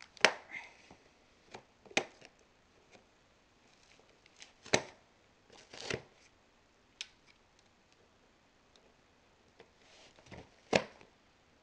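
Large copper-coloured box staples being worked and pried out of a cardboard shipping box with a hand tool: a series of sharp clicks and snaps a second or few apart, with cardboard rustling between.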